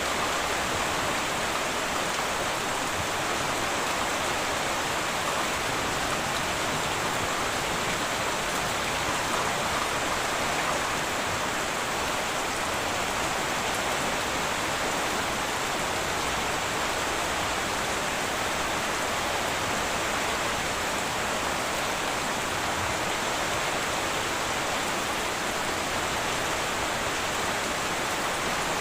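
Heavy rain falling steadily on a tin roof, an even hiss of drops with no thunder.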